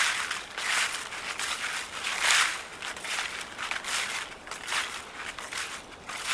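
Footsteps crunching through dry fallen leaves on a forest trail, one step after another at a slow, steady walking pace.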